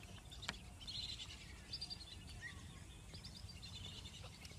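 Faint birds chirping in short high clusters over a low steady rumble of wind or handling noise on a phone microphone, with one faint click about half a second in.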